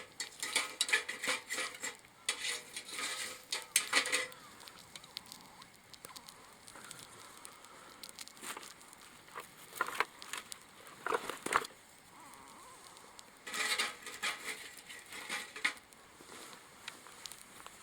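Clattering, clicking and rustling handling sounds in three bursts, with quieter stretches between.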